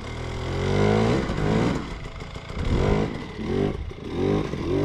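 Dirt bike engine revving in repeated bursts, its pitch rising and falling about five times as the throttle is opened and closed.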